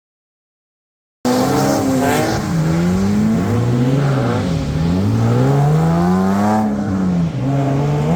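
After about a second of silence, a drift car's engine cuts in loud, its revs swinging up and down again and again.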